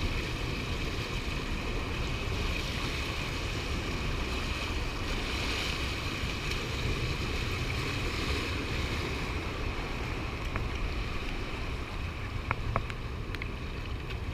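Gusty wind buffeting the microphone over the steady rush of river water below a dam spillway. A few small clicks come near the end.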